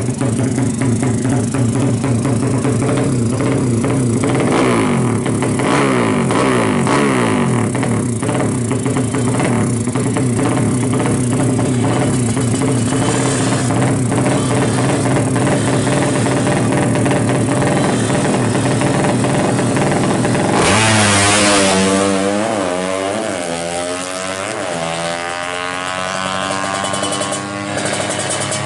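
200cc horizontal-cylinder racing motorcycle engine running with a loud exhaust, choppy and cutting in and out as it is tuned. About 21 seconds in it is revved hard, with the pitch sweeping up and down.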